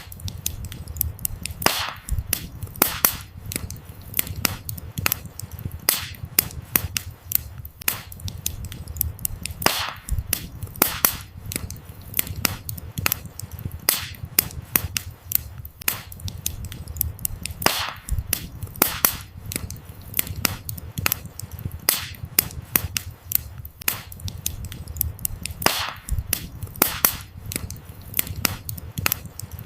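Wood fire burning, with frequent sharp crackles and pops from the burning logs over a low, steady rumble of flame.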